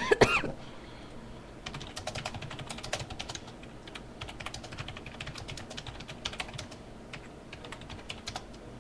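Typing on a computer keyboard: a quick, irregular run of key clicks that starts a couple of seconds in, typing an MSN chat message.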